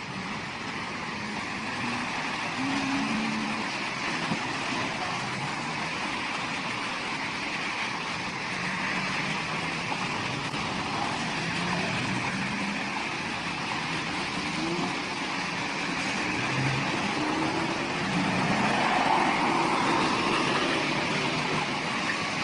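Motor vehicles running, a steady rumble of engine and road noise with faint wavering low tones.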